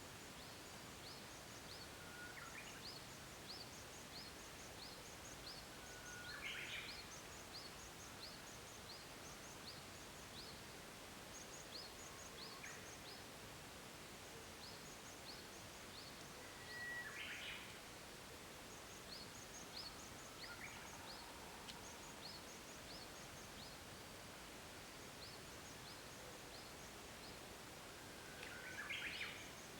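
Japanese bush warbler (uguisu) singing its song three times, each a held whistled note followed by a quick rising flourish, with fainter songs in between. A steady run of short high chirps repeats behind it.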